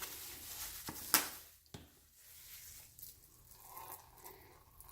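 Faint kitchen handling noise: a sharp click about a second in, with a couple of smaller clicks near it, then only faint rustling.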